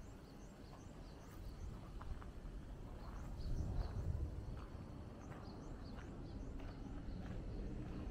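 Small birds chirping in quick, repeated short notes over a steady low outdoor rumble.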